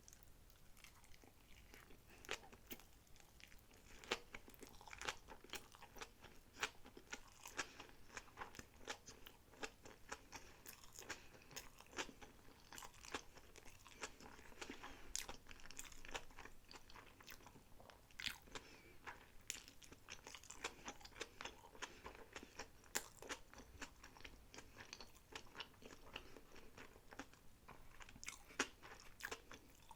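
Close-miked chewing of sushi rolls: quiet, wet mouth clicks and soft crunches coming in a dense, irregular run.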